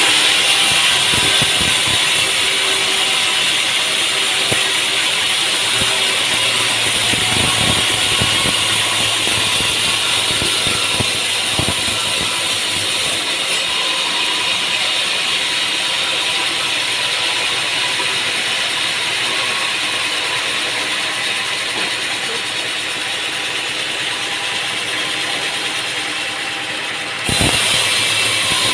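Sawmill machinery running with a steady mechanical rattle and scattered knocks. The sound changes abruptly near the end.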